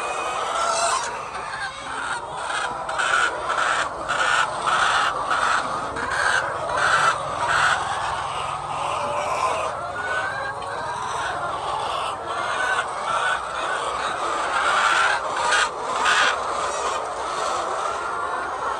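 A flock of chickens clucking and calling all at once in a continuous din, with many short, sharp calls repeating close together.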